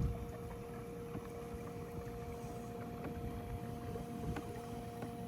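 Small electric trolling motor running steadily on a micro boat, a constant whine of a couple of even tones over a low rumble of water and hull.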